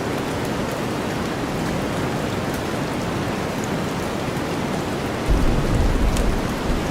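Steady rain mixed with deep white noise, with scattered drop ticks. A low rumble of thunder breaks in suddenly about five seconds in and lasts a second or two.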